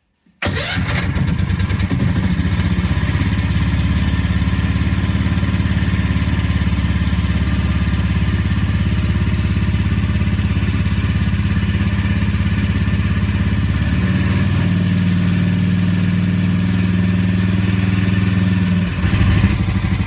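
Brand-new small gasoline engine on a homemade snowplow, fitted with a new muffler, starting about half a second in and then running steadily. Its pitch shifts slightly about 14 seconds in and rises briefly just before the end.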